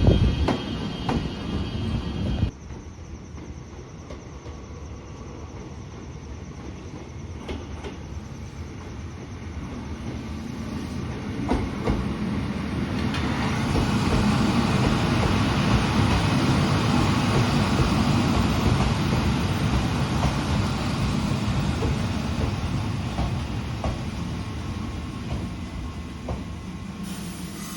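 Chichibu Railway electric train running past on the track: a loud passage that cuts off suddenly about two seconds in, then a rumble of wheels on rail that builds, holds with a few clicks, and fades near the end.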